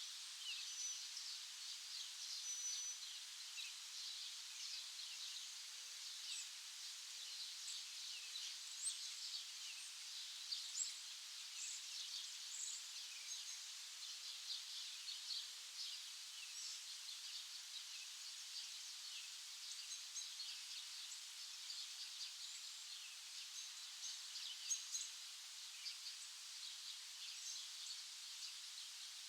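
Several small songbirds chirping and twittering together: a continuous, busy mix of short high calls with a few brief whistled notes, over a faint steady hiss.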